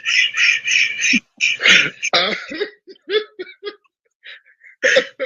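A person coughing in a quick run of bursts, followed by a few short, muffled vocal sounds, heard through a live-stream call.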